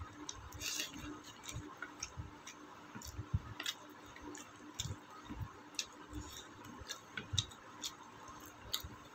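Person chewing a mouthful of rice, with soft smacking and clicking mouth sounds about twice a second.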